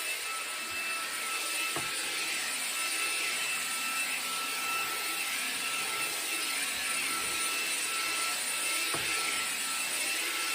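Shark handheld cordless vacuum running steadily on carpet, picking up dog hair: an even rush of air with a constant motor whine, and a couple of faint knocks from the nozzle.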